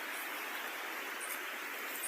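Steady rushing noise, with a couple of faint, short, high chirps near the end.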